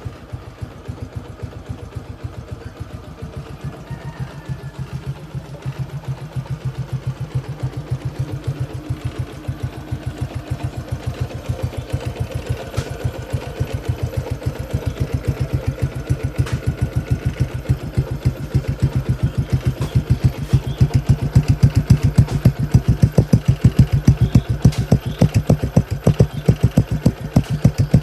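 Motorcycle engine idling through a Suzuki Satria FU–style stock muffler: an even train of exhaust beats that grows steadily louder.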